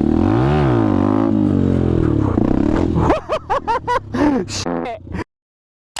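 Motorcycle engine revving, its pitch rising and falling, then a run of quicker rev sweeps before it cuts off abruptly about five seconds in.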